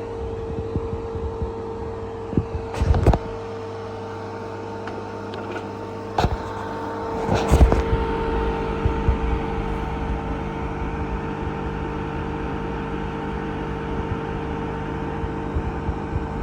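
Refrigerant recovery machine running steadily, its compressor making a constant hum while it pulls refrigerant from the system into a recovery tank. A few short knocks come about 3, 6 and 7.5 seconds in, and a second, higher tone joins the hum shortly after.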